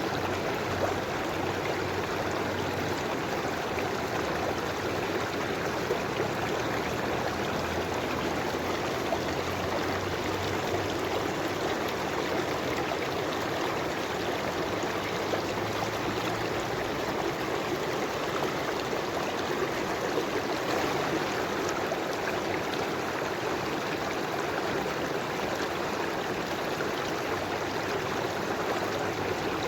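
River water flowing and gurgling over rocks, a steady rushing with fine splashing texture.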